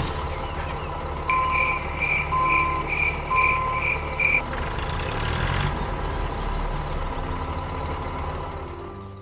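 A heavy vehicle's engine running steadily, with a reversing alarm beeping in a regular pattern for a few seconds and then stopping about halfway through.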